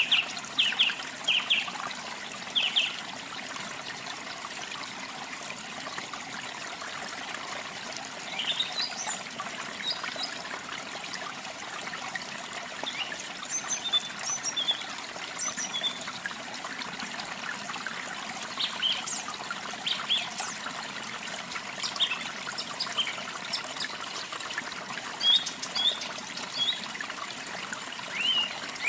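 Water trickling and splashing steadily, with small birds chirping in short scattered bursts over it.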